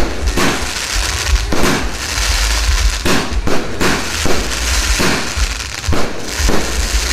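Fireworks going off in a series: irregular loud bangs, several close together at times, with crackling between them.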